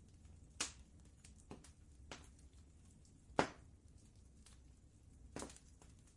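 Wood fire crackling: a handful of sharp, separate pops and snaps, the loudest about halfway through, over a faint low steady rumble.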